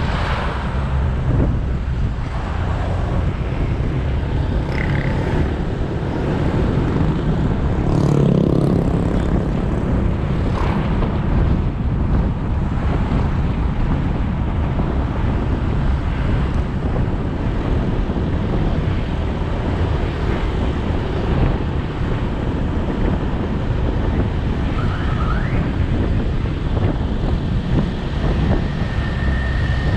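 Motorbike engine running while riding along a road, with wind on the microphone and surrounding traffic noise. A louder swell comes about eight seconds in.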